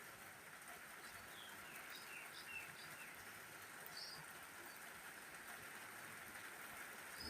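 Faint steady hiss of rain, with a bird giving several short chirps in the first half.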